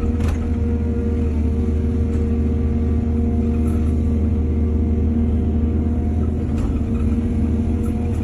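Heavy diesel engine running steadily at an even speed, with a couple of faint clicks.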